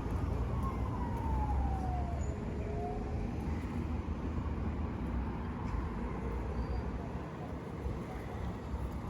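Emergency vehicle siren wailing in slow rising and falling sweeps, plainest in the first three seconds and fainter after, over a steady low rumble of street traffic.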